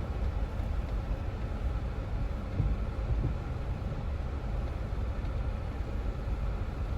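Jeep Wrangler running with a steady low rumble, with a couple of faint knocks about a third of the way through.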